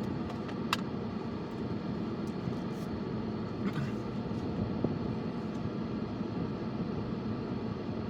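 Steady low rumble of a car driving, heard from inside the cabin, with a couple of brief faint clicks.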